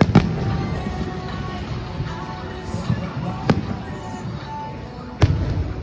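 Aerial fireworks shells bursting overhead: three sharp bangs, one just after the start, one about three and a half seconds in and one near the end, each followed by a low echoing rumble. Background music plays throughout.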